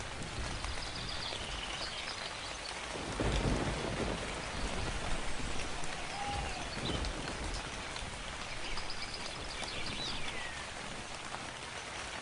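Steady rain falling, with low thunder rumbling about three seconds in and again briefly a few seconds later. Birds chirp high above the rain twice, with short falling calls.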